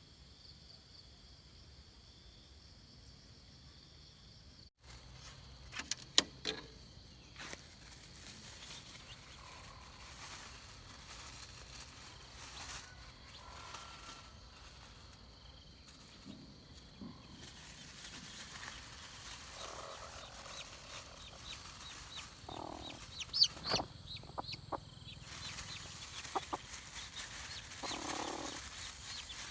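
Chickens clucking, with short sharp clicks or knocks scattered among the clucks, the loudest about six seconds in and again near 23 seconds.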